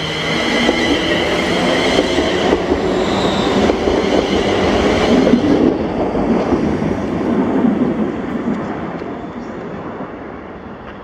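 A ScotRail electric passenger train on the Wemyss Bay line running through the station, with a high whine over its wheel and rail noise in the first half. The noise fades steadily as the train draws away.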